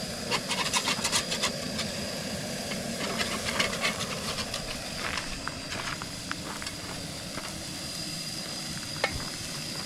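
Hamburger patties sizzling on a hot grill, a steady hiss, with clicks and scrapes in the first few seconds and a single sharp click near the end. A faint steady high tone runs underneath.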